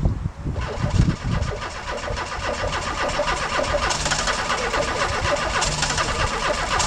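Volkswagen Syncro van's engine being started: a second or so of uneven cranking that catches, then the engine running steadily.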